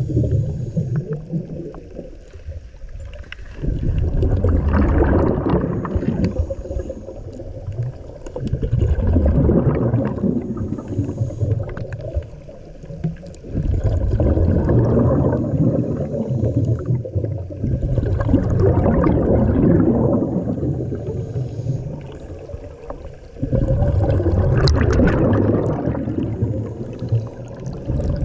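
Scuba diver breathing through a regulator underwater: a rush of exhaled bubbles about every five seconds, five times in all, with quieter lulls between.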